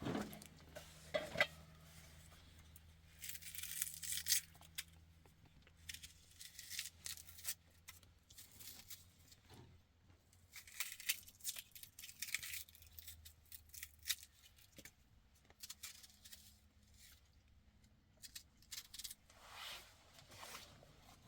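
Faint rustling and small scattered clicks, as of things being handled, with a faint low steady hum underneath.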